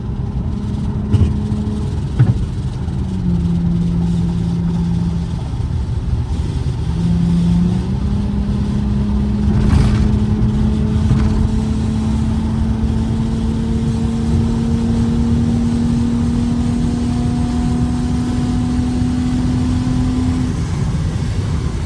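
Infiniti G35's V6 engine pulling on the road, with road rumble underneath. Its note dips for a few seconds, jumps back up, then climbs slowly and steadily as the car gains speed. The driver thinks it probably needs new spark plugs.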